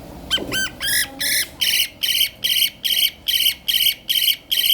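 A bird calling over and over in high-pitched calls. The first few are short and rise in pitch. Then, from about a second and a half in, they settle into a steady, even series of about three calls a second.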